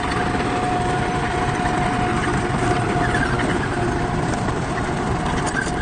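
Diesel engine of heavy earthmoving machinery running steadily, with a steady high whine over the low rumble.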